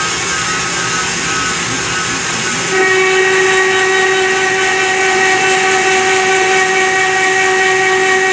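CNC lathe boring tool roughing the bore of a DS38 box connection: a steady cutting hiss, joined about three seconds in by a steady high-pitched ringing tone from the tool or workpiece vibrating (chatter).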